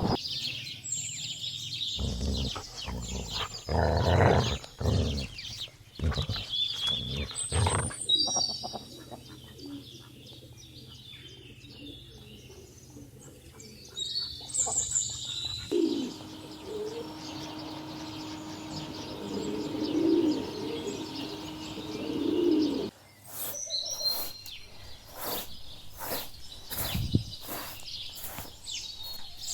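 Small birds chirping and calling over outdoor ambience, with scattered knocks and a run of sharp clicks near the end. The background changes abruptly several times.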